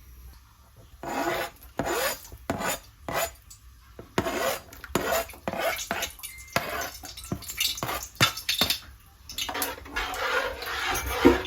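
A metal cooking utensil scraping and clinking against a cooking pot as the food is stirred: a quiet first second, then a quick run of short scrapes and knocks.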